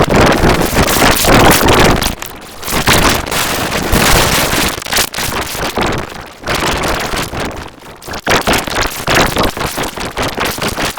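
Loud, harsh crackling noise from heavily distorted, effect-processed audio, with a few brief drops in level.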